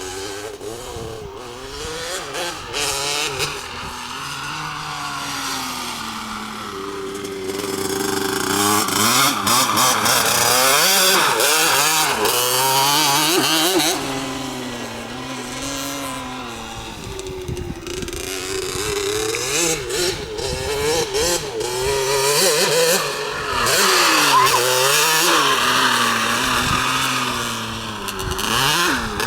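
A LEM RX 65cc two-stroke mini motocross bike being ridden, its engine revving up and down again and again through throttle changes. It grows loudest twice, about ten seconds in and again near the end, as the bike comes closer.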